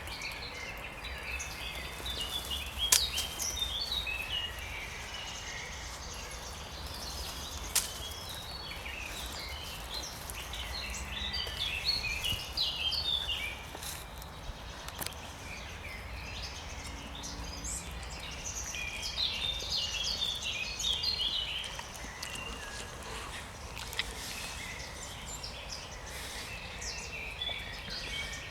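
Songbird singing in spring, three bouts of quick, varied notes a few seconds each, with a few sharp clicks and a steady low rumble underneath.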